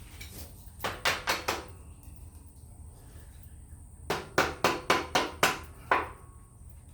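Hammer strikes while fitting a backhoe quick-attach: three quick blows about a second in, then a run of about seven evenly paced blows a few seconds later.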